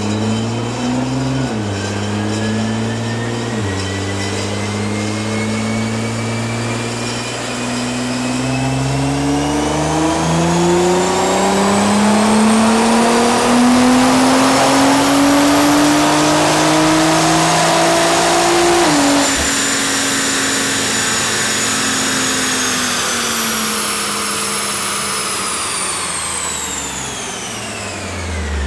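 Nissan GT-R R35's twin-turbo 3.8-litre V6 on an all-wheel-drive chassis dyno. The engine shifts up twice in the first few seconds, then makes one long full-throttle pull, its exhaust note climbing steadily for about ten seconds. The throttle closes suddenly after nearly twenty seconds and the engine note drops, while a high whine that follows road speed holds for a moment and then falls away as the wheels coast down.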